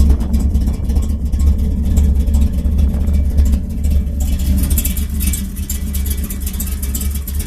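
The 514-cubic-inch Ford Racing V8 running, a deep exhaust rumble; the sound turns brighter and a little quieter about four seconds in.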